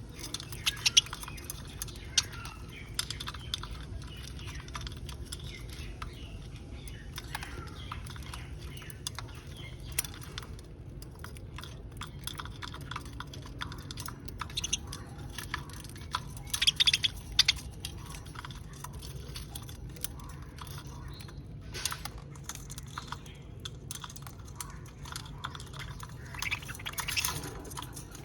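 Budgerigars cracking and husking sunflower seeds with their beaks: irregular sharp clicks and crunches, with bursts of louder cracking, and a few soft chirps.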